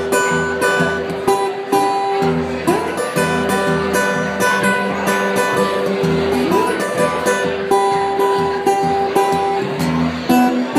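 Blues instrumental break led by guitar over a steady rhythm, with a phrase that slides up into a held note about every four seconds.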